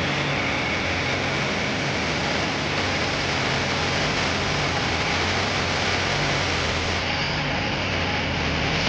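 Long-tail boat engine running steadily at speed, a low hum under a constant rush of water and wind.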